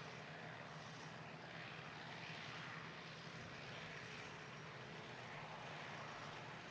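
Vintage farm machinery running steadily: a constant low engine hum under a hiss that slowly swells and fades.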